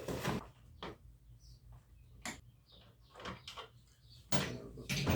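Scattered light clicks and knocks of car parts and tools being handled during bumper removal, about half a dozen spread out, with a louder clatter about four seconds in.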